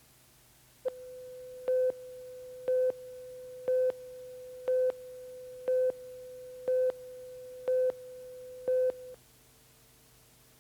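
An electronic tone holds steady for about eight seconds. Nine louder beeps sound over it about a second apart, and the tone cuts off well before the end.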